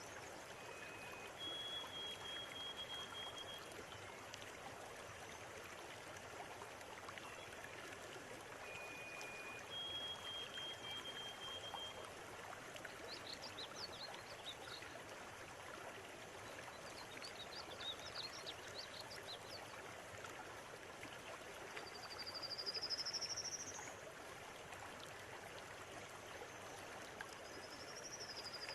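River water flowing steadily, with birds calling over it: a few level whistled notes in the first half, bursts of quick chirps in the middle, and a rising trill about 22 seconds in, the loudest sound, with another trill near the end.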